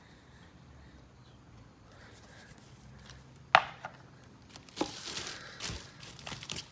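Boxed fireworks being handled: quiet at first, then one sharp knock about three and a half seconds in, followed by a few softer knocks and rustles of packaging.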